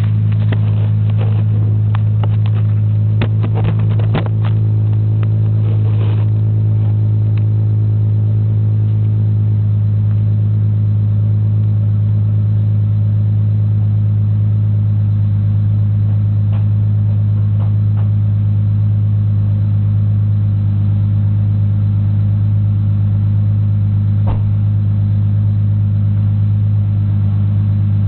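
2007 Dodge Charger's 2.7 L V6 idling steadily on a cold start through a Magnaflow straight-through muffler with no resonator, giving a deep, even exhaust drone. A few sharp light clicks sound in the first several seconds.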